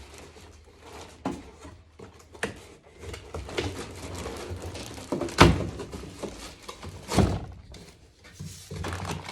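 Cardboard box and packaging being handled during unboxing: scattered rustling and knocks, with two loud thumps about five and seven seconds in.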